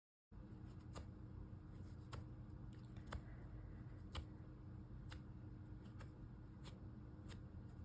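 Scissors snipping cloth in faint, irregular snips about once a second, shredding a small doll's fabric dress for a frayed, grungy look.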